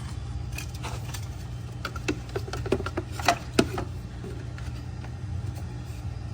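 Steady low hum of the running refrigerator compressor and a small fan blowing on it, with a handful of sharp clicks and knocks between about two and four seconds in.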